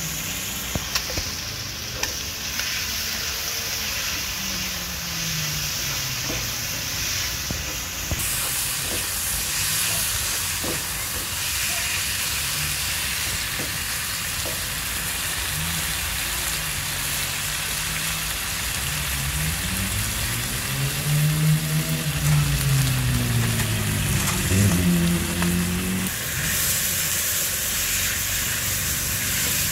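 Chicken pieces sizzling in oil in a wok as a spatula stirs them, with a few sharp knocks of the spatula against the pan. A low pitched drone rises and falls in the background, loudest about two-thirds of the way through.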